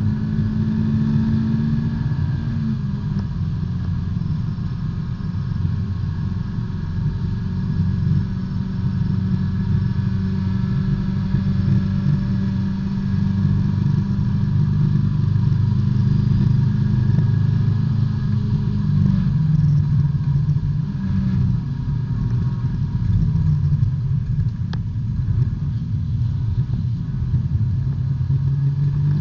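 B-Spec race car's engine heard from inside the cockpit, running hard at steady speed, its note stepping down in pitch about two seconds in and shifting again a few times past the middle.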